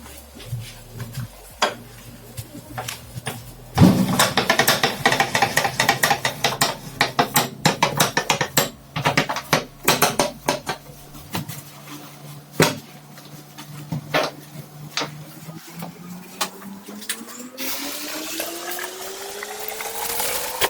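Dishes and utensils clattering and knocking in a kitchen, then water running into a vessel, its note rising steadily as the vessel fills.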